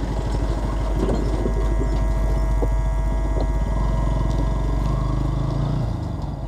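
Bajaj Pulsar NS200's single-cylinder engine running steadily under way, with a fast even pulsing rumble.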